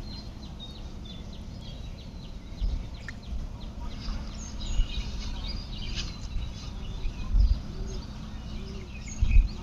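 Small birds chirping and twittering, many short high calls, over a steady low rumble of outdoor background noise broken by a few louder low bumps, the strongest near the end.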